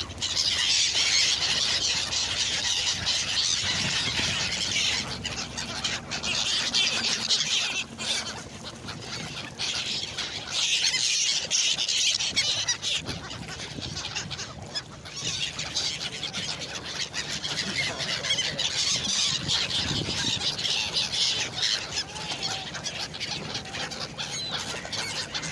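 A large flock of birds calling all at once, a dense high chatter of overlapping calls that swells and eases in stretches.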